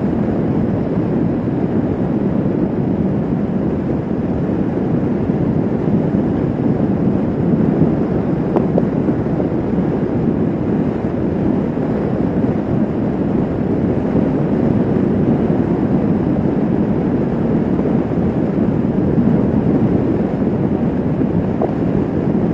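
Motorcycle at riding speed: a steady rush of wind over the microphone with the engine running underneath, unchanging throughout.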